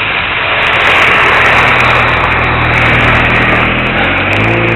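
Micro RC airplane's small electric motor and propeller running in flight, a steady hum under a loud rushing noise, likely wind on the microphone; the hum changes pitch about four seconds in.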